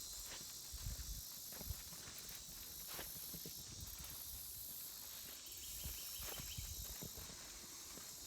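Footsteps of people walking along a dirt trail, a soft thump about every half second to second, over a steady high-pitched hiss.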